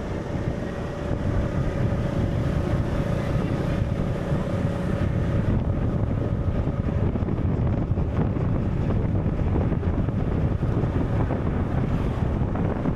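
Steady wind and rushing-water noise, a dense low rumble without breaks, with a few faint held tones in the first half.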